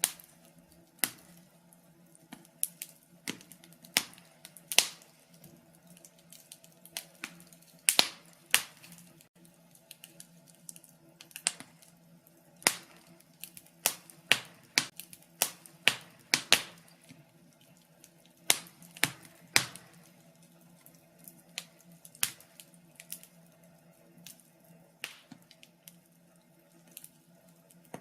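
Wood fire crackling in a fireplace: irregular sharp pops and snaps, some loud, over a faint low steady hum.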